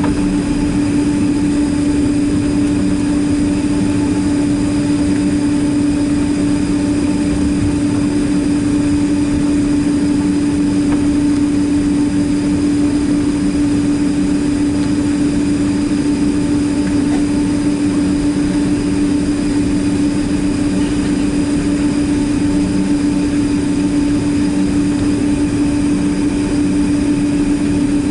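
Boeing 767-300ER jet engines running at a steady setting, heard from inside the passenger cabin: an even, unchanging drone with one strong steady hum and fainter higher tones over rushing noise.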